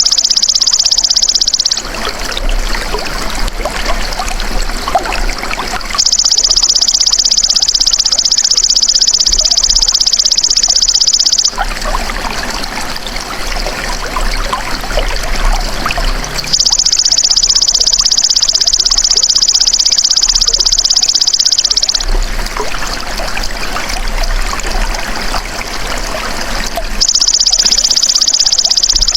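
Belalang emas ('golden grasshopper') insect calling in loud, high, rapidly pulsed buzzing trills, each bout about five seconds long with pauses of about four to five seconds between them. In the pauses, trickling water can be heard.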